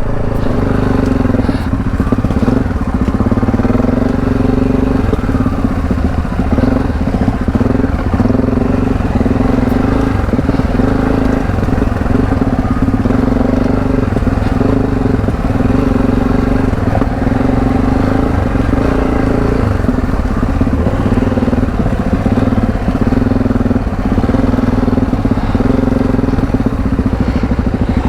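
Adventure motorcycle's parallel-twin engine running under throttle off-road, its note easing and picking up again every few seconds.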